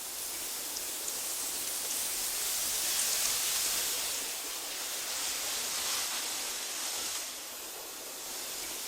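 Wind blowing through tall meadow grass, a steady rushing sound that swells a little about three seconds in and eases near the end.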